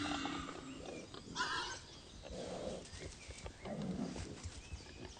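Wild boars grunting, with a few short separate calls and a higher squeal about a second and a half in.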